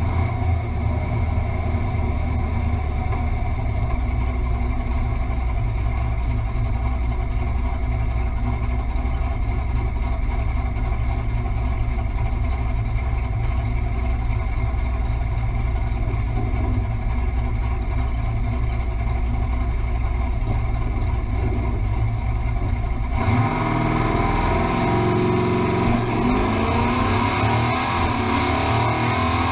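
Fox-body Ford Mustang's engine running steadily, then about 23 seconds in rising in pitch as it revs and accelerates.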